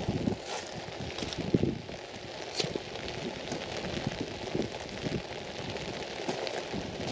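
Rain falling on an umbrella overhead: a steady hiss with irregular, sharper drop hits.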